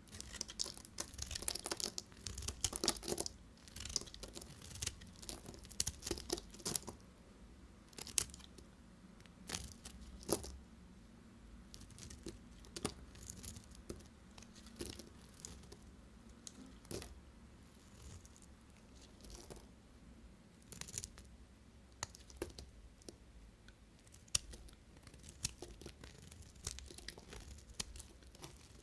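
A knife cutting through bars of soap, giving crunchy crackling and sharp snaps: a dense run of crackles in the first few seconds, then separate cuts every second or two.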